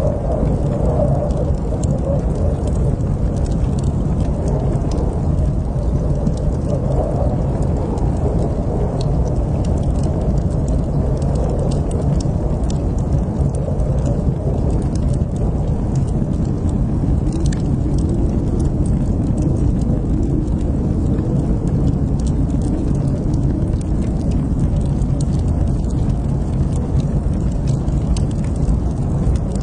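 Wood fire burning in a fireplace: a steady low rushing roar with scattered small crackles and pops throughout.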